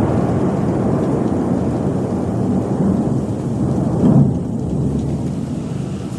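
Rolling thunder rumbling deeply and continuously, swelling to a peak about four seconds in and then fading.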